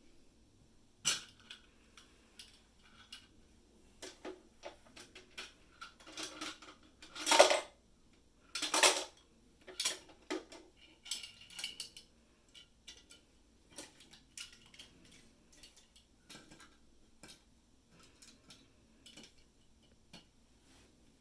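Small hard plastic toy pieces knocking and clattering as they are handled, in scattered clicks with two louder, longer rattles in the middle.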